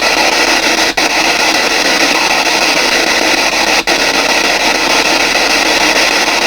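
Spirit box (PSB7) sweeping through radio channels, giving a loud, steady hiss of radio static with two brief dropouts, about a second in and just before four seconds.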